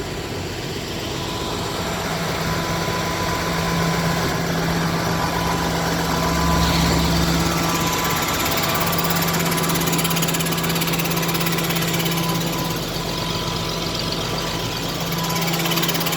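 Diesel engine of a 1976 Mercedes-Benz 1519 fire truck idling steadily with a rapid knock, briefly a little louder about six to seven seconds in.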